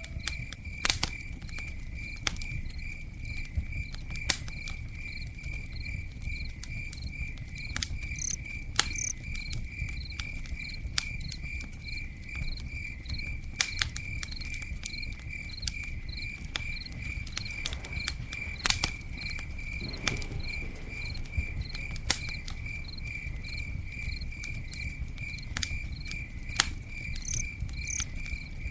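Cricket chirping in a steady, evenly pulsed high trill, over a campfire crackling with scattered sharp pops and a low rumble.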